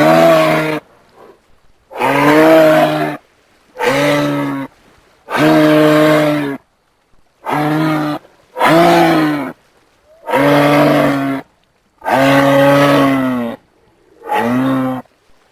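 A large animal's low, moo-like calls, about nine in a row, each roughly a second long with short pauses between.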